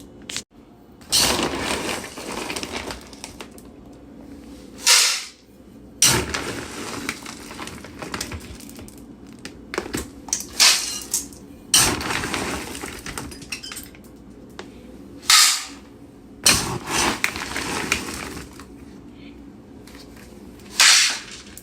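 Kitchen clatter of bowls and a utensil: repeated scraping, knocking and rattling as dog food is put into dishes and stirred together, in irregular bursts separated by short pauses.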